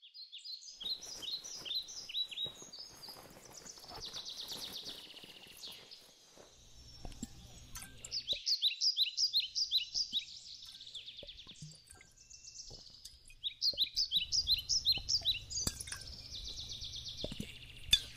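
A songbird singing the same phrase several times over: a quick run of falling notes followed by a buzzy trill. A faint low rumble runs underneath from about a third of the way in.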